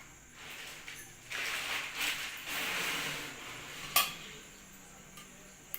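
A bread omelette being turned in a frying pan: a noisy rush of scraping and frying for about two seconds, then a sharp metal clink about four seconds in, and a lighter click near the end.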